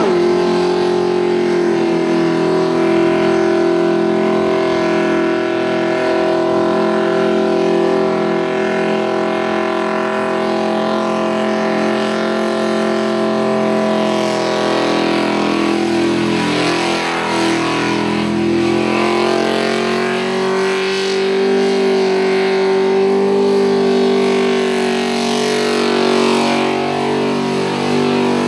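Supercharged Holden Torana engine held at high revs through a burnout, the rear tyres spinning on the pad. It gives a steady high engine note that wavers about halfway through, then settles again, dipping near the end.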